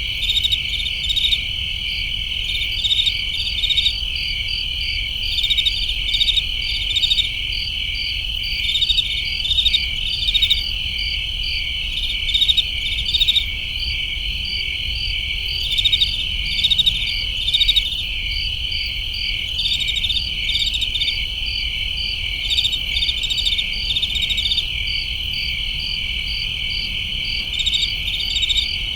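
A chorus of crickets: a steady high trill with groups of quick chirps pulsing over it every second or so.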